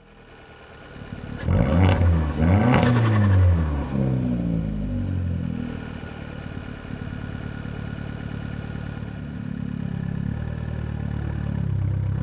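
Fiat 500 Abarth's turbocharged 1.4-litre four-cylinder engine blipped up and down in quick revs for a couple of seconds, then settling to a steady idle.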